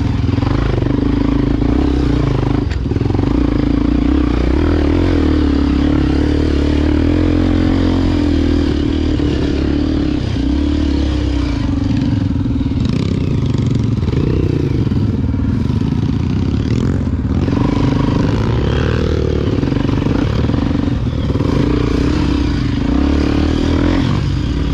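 Honda XR Tornado 293 single-cylinder dirt bike engine running under way off-road, its speed rising and falling a little, with the clatter of the bike over rough ground.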